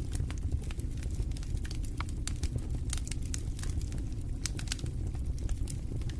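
Wood fire in a fireplace crackling: many short, irregular pops and snaps over a steady low rumble of the flames.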